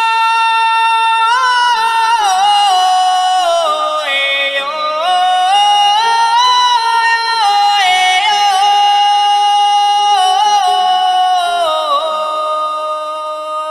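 Yunnan Haicai-tune folk singing: a high voice holds long notes and slides smoothly up and down between them, with a fainter lower line beneath.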